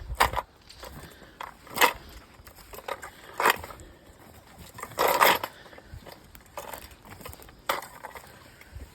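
Walking on a forest trail: irregular crunching steps or rattles about every one and a half to two seconds, the loudest about five seconds in.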